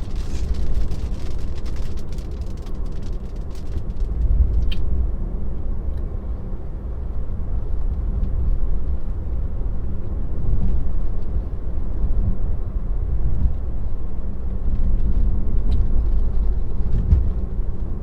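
Road and tyre noise heard inside a moving Tesla's cabin: a steady low rumble that swells and eases, with scattered faint ticks in the first few seconds.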